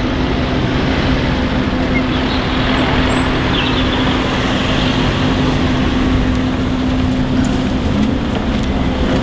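Land Rover Discovery 2's TD5 five-cylinder turbodiesel engine and road noise while driving at steady speed: an even, unbroken drone with a constant low hum.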